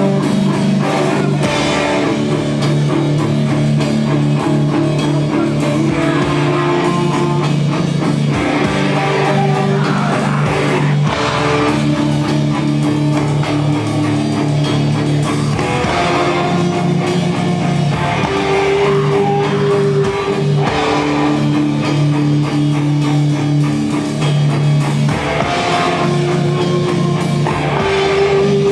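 A rock band playing live: guitars holding long chords that change every few seconds, over drums.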